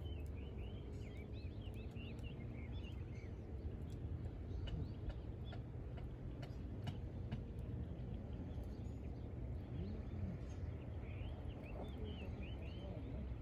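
Wood campfire crackling with scattered sharp pops, over a steady low rumble of wind on the microphone. Small birds chirp in quick runs of short notes near the start and again near the end.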